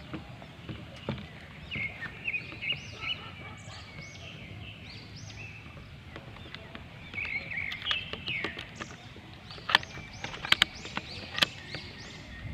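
Small birds calling in a tree: many short, repeated arched chirps over steady outdoor background noise. A few sharp clicks about ten seconds in are the loudest sounds.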